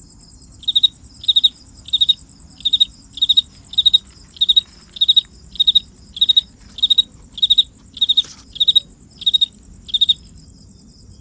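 A cricket chirping at a steady pace, about one and a half chirps a second, each chirp a quick pulsed trill; it stops near the end. A steady, thinner high insect trill runs beneath it.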